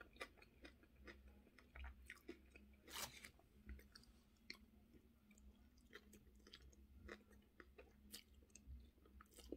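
Faint close-up chewing of crispy pan-fried spaghetti, with irregular small clicks and crackles.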